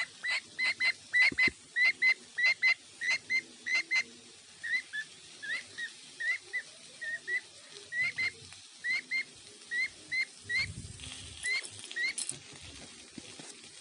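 A bird chirping a long series of short, high calls: quick and clipped at about three to four a second at first, then after about four seconds slower chirps that slide upward, about two a second.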